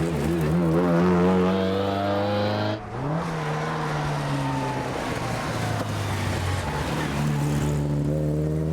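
Rally car engine accelerating hard. Its pitch climbs, breaks off about three seconds in at an upshift, then climbs again through the gears.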